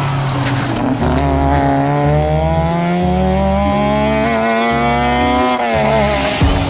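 Autobianchi A112 Abarth rally car's four-cylinder engine accelerating hard through one gear, its pitch climbing steadily for about four and a half seconds before it drops off near the end.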